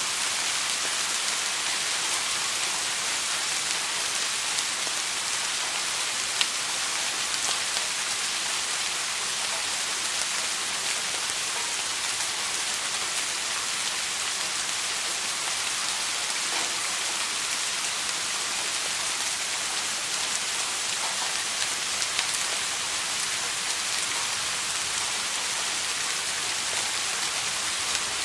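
Steady rain falling, a constant hiss of drops hitting a surface with occasional single louder drops.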